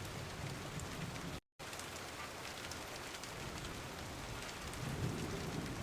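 Steady rain with scattered individual drops ticking, and a low thunder rumble swelling near the end. The sound cuts out completely for a moment about a second and a half in.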